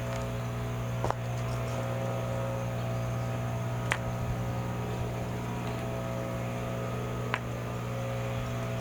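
Steady low mechanical hum with a stack of even overtones, broken by three sharp, brief snaps spaced a few seconds apart.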